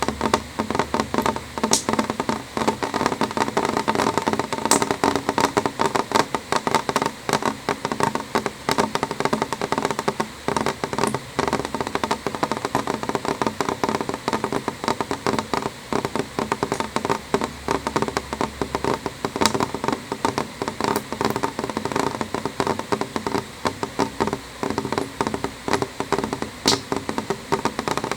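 Rain on window glass: a dense, irregular patter of drops tapping on the pane, steady throughout, with a few sharper individual ticks.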